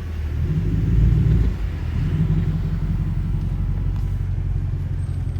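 Straight-piped 2021 Dodge Durango R/T's 5.7-litre Hemi V8 exhaust running at low speed. It swells in loudness about a second in, drops back sharply, then settles to a steady low drone.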